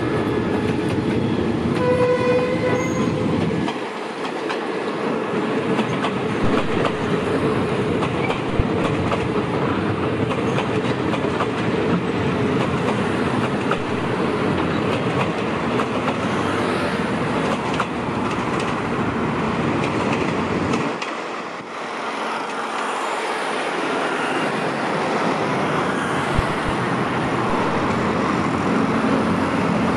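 Rake of empty passenger coaches rolling past on jointed track: a steady rumble of wheels on rail, with wheels clacking over the rail joints. A short pitched tone sounds about two seconds in.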